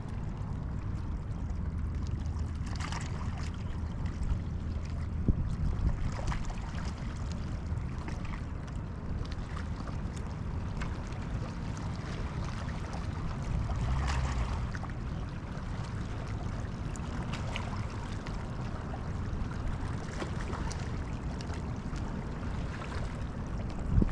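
Steady wind rumbling on the microphone with water lapping, and a few faint scattered ticks.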